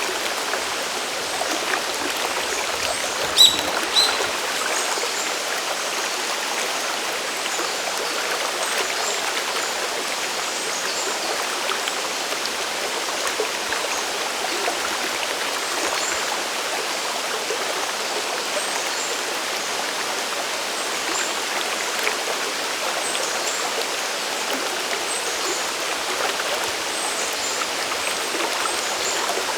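Steady rush of cascading water from a mountain stream below a waterfall, an even hiss with little low rumble. Two short sharp clicks stand out about three and a half and four seconds in.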